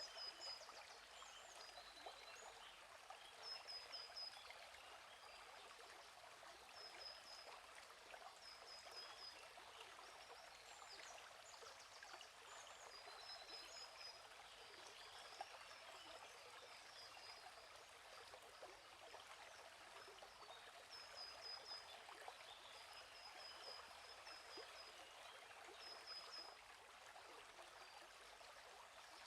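Soft, steady running of a gently flowing stream, with birds giving short high chirping phrases every few seconds.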